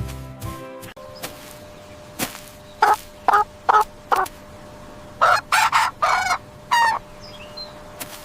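Chicken calling: four short clucks in quick succession, then a run of longer, louder squawking calls.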